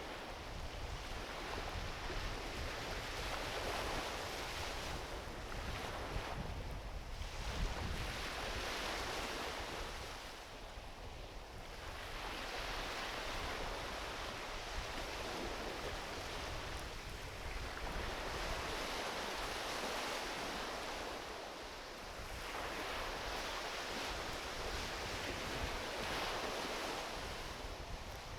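Ocean waves washing onto a beach: a rush of surf that swells and eases every few seconds, over a low rumble.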